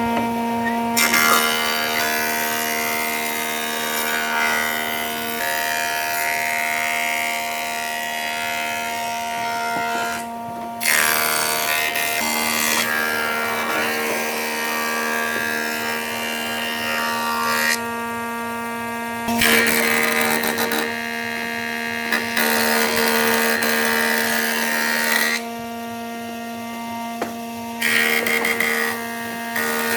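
Power tools working wood: a steady motor hum with loud bursts of cutting or sanding noise that start and stop abruptly several times.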